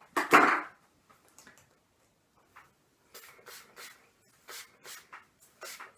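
Heat-protection spray bottle squirted into hair: one loud spray burst just after the start, then a string of about eight short, quick sprays in the second half.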